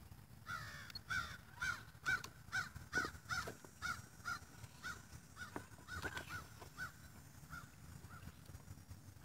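A bird calling a long run of short, arched, repeated calls, about two a second, that spaces out and fades after six seconds or so. A few light knocks come from the RC rock crawler's tyres and chassis on the stones.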